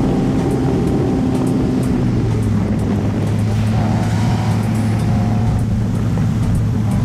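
Car engine running steadily at an even pitch, with a faint wavering higher tone a few seconds in.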